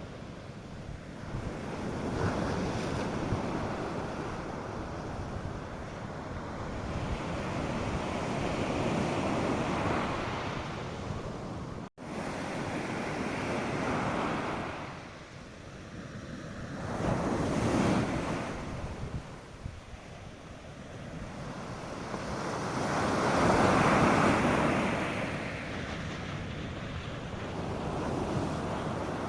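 North Sea surf breaking on a sandy beach, the wash swelling and falling wave after wave, with some wind on the microphone. The sound cuts out for an instant about twelve seconds in.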